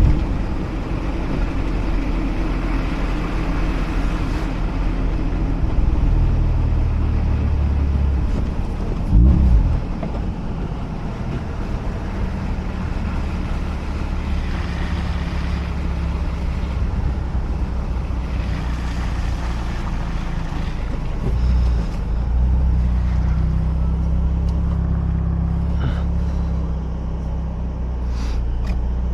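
Mazda RX-8's two-rotor rotary engine running steadily under road and tyre noise while driving, with a brief rise and fall in engine speed about nine seconds in.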